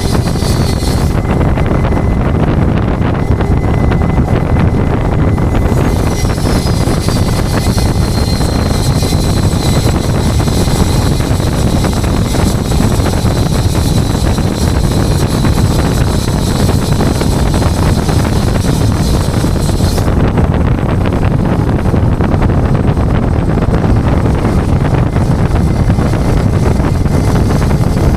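Steady wind and road noise from a moving tow truck, buffeting the microphone. A faint high whine drops in pitch about six seconds in and holds until about twenty seconds.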